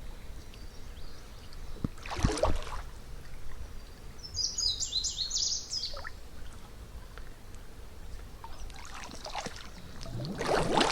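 Water sloshing and splashing in a few bursts as people wade through a pocket-deep creek, with a songbird singing briefly about four seconds in.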